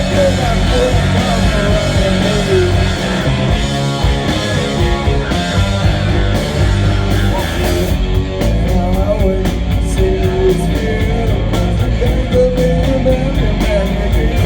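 Rock band playing live and loud, guitar-driven, with a melody line bending in pitch. Rapid, even cymbal strokes come in from about halfway.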